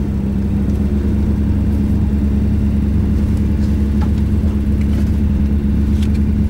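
Volvo 240 rally car's engine running steadily at a standstill, heard from inside the cabin as a constant low drone at an unchanging pitch. A few faint clicks sound over it.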